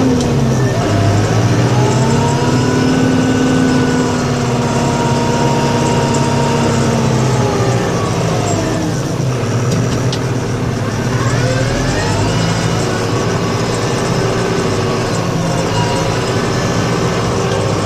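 Snow-plowing vehicle's engine running under varying load. Its pitch rises about a second in, holds, drops around eight seconds, then climbs again near twelve seconds.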